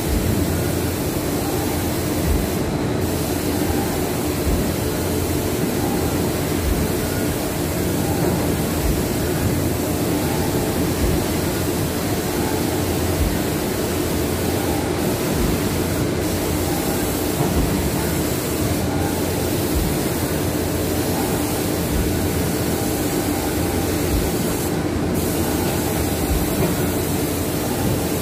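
Steady mechanical running noise: a constant low hum under a hiss, with a few brief drops in the hiss.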